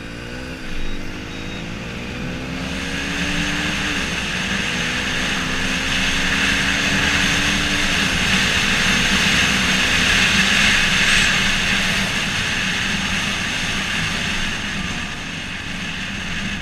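Yamaha XTZ 125's single-cylinder four-stroke engine accelerating through the gears, its pitch climbing and then dropping back at upshifts about one, four and eight seconds in. Wind rushes over the microphone, growing louder as speed builds.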